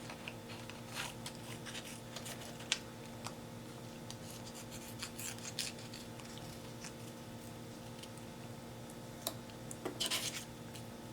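Scissors cutting small circles out of paper: faint, irregular snips and paper rustling, with a louder flurry near the end.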